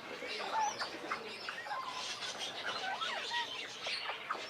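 A flock of northern bobwhite quail chirping and whistling, many short rising and falling calls overlapping one another.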